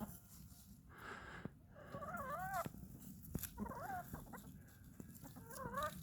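Chickens calling: three short wavering, warbling calls spread across the few seconds, over low background noise.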